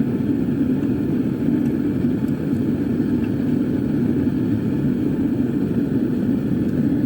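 Propane burner running steadily in a home forge: a constant, even, low rushing noise with no breaks.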